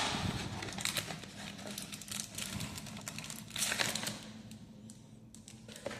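Crinkling of a trading card pack's wrapper as it is handled and opened: irregular crackles and rustles, busiest in the first few seconds and fading away near the end.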